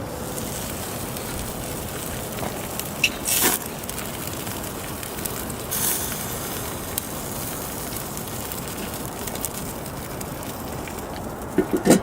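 Chicken sizzling on a barbecue grill as a steady hiss, with two short louder flare-ups about three and six seconds in and a few knocks near the end.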